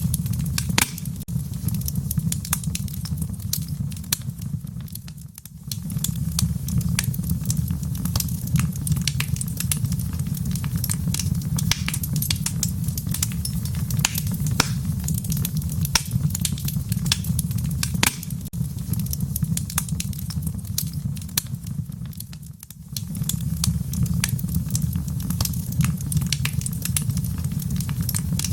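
Wood fire crackling in a stone fireplace: frequent sharp pops and snaps over a steady low rumble of the flames. The sound dips briefly twice, about five seconds in and again near three-quarters of the way through.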